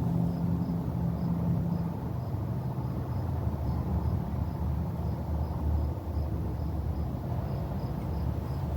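A steady low rumble with faint, high insect chirps repeating at an even pace, about two to three a second.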